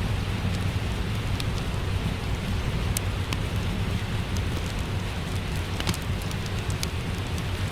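Steady rain with a low rumble underneath, and scattered single sharp crackles from a wood fire.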